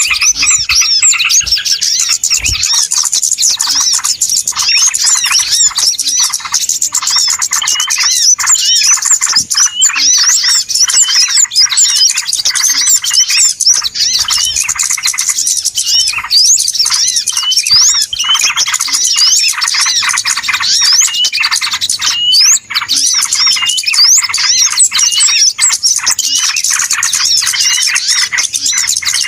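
Dense, unbroken chorus of many small birds chirping and squeaking at once, high-pitched calls tumbling over each other without a pause: a 'noisy' bird-lure recording meant to draw small birds in.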